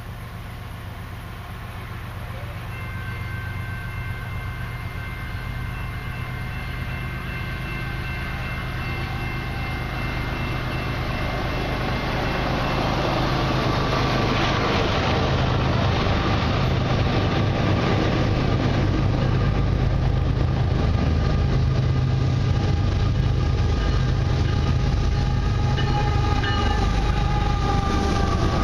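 Canadian Pacific intermodal freight train approaching behind two GE diesel locomotives, growing steadily louder as the engine rumble and rail noise build toward the lead units passing close near the end. The locomotive's air horn sounds a steady chord for several seconds in the first half.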